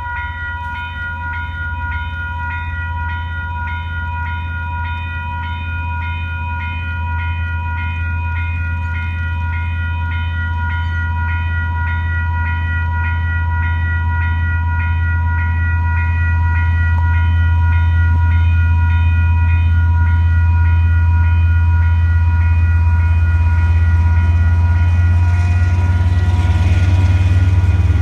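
Diesel locomotive engine rumble growing steadily louder as a DL-class locomotive hauls a loaded coal train in, over the steady, rapidly repeating ringing of level crossing warning bells.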